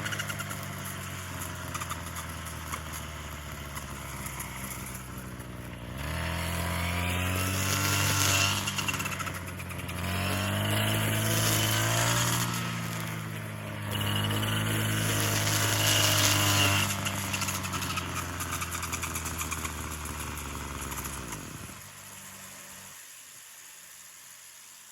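A small engine running and revved up three times, then shut off near the end.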